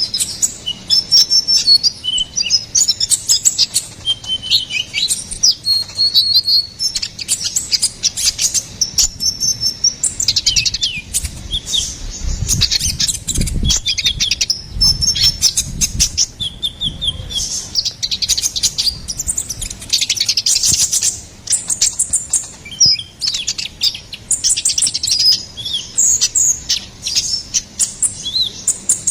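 Kolibri ninja (konin) sunbird singing: a fast, unbroken stream of high, thin chirps and trills, with a low rumble for a few seconds about halfway through.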